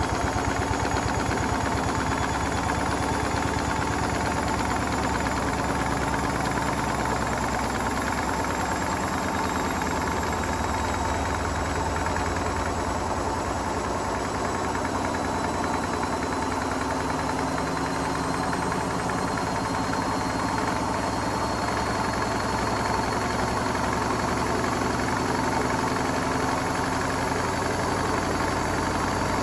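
Hotpoint Smart Tech WMFUG742 washing machine running a wool wash with bricks in the drum: a steady machine hum with a fast, low rattle and a faint high whine that climbs slowly.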